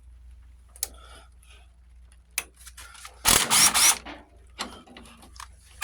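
Hand tools working on metal tractor parts: scattered sharp clicks and knocks, then a loud rasping, rattling burst lasting under a second, about three seconds in.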